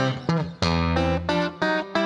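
Guitar music: a run of plucked guitar notes over a bass line, with one note bent in pitch about a third of a second in.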